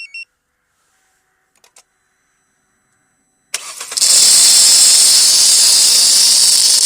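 Aerosol can of WD-40 spraying in one long, loud hiss that starts about halfway in, applied to the ribbed inner side of a car's squealing accessory drive belt to quiet it.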